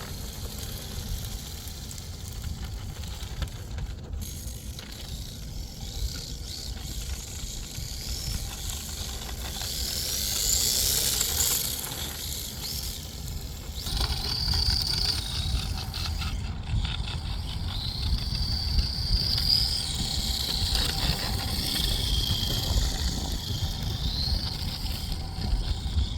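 Electric 1/10-scale RC drift car (D-Like LP86 chassis, 10.5-turn motor, 128-tooth spur gear) being driven: a high motor and gear whine rising and falling in pitch as it speeds up and slides, over a steady low rumble.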